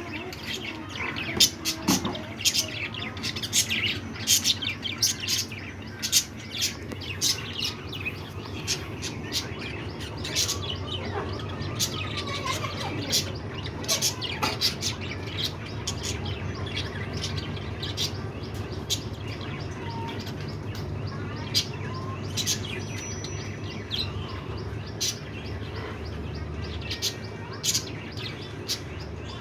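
Budgerigars chirping: many short, sharp chirps, busiest in the first half, over a steady low hum.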